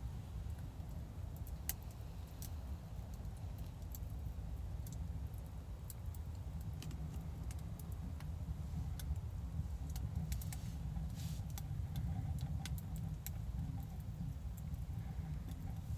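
A steady low rumble with many scattered light clicks and taps.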